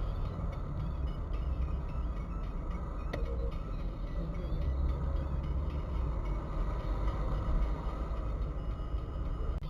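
Steady low rumble of a vehicle on the move, with a single sharp click about three seconds in.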